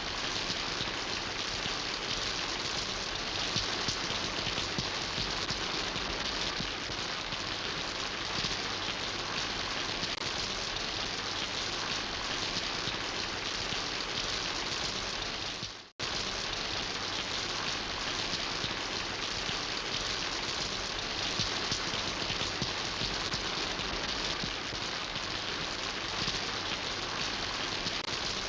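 Steady rain falling, an even hiss of drops. A bit past halfway through it fades away and drops out for an instant, then comes straight back.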